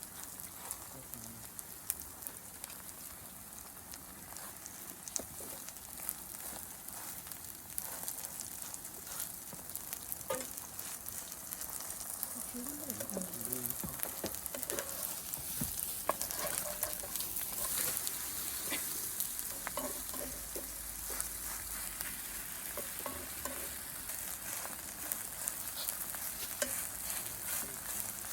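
Food sizzling and crackling as it fries in a hot pan, the sizzle slowly growing louder.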